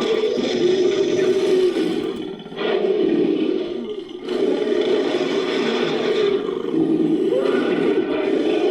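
Designed monster roar sound effect, layered from ape and big-cat roars, in long continuous growling roars. It breaks briefly about two and a half seconds in and again about four seconds in.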